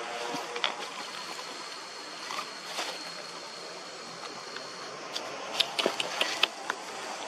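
Steady background noise with a faint high steady tone through the middle, then a quick run of sharp clicks and taps starting a little past five seconds in.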